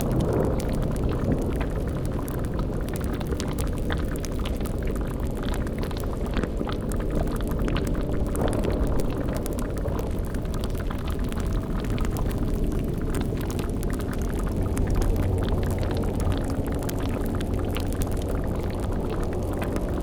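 Dark fantasy ambience bed: a steady low bubbling and rumbling like a boiling cauldron, with a low hum that swells briefly about three-quarters of the way through.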